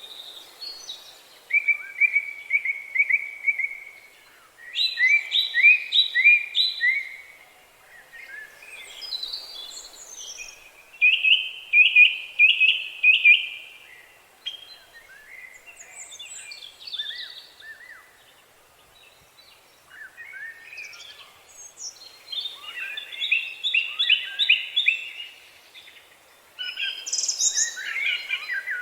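Songbirds singing: phrases of quick, clipped, repeated notes every few seconds, some trilled, with more than one bird answering near the end, over a faint steady outdoor hiss.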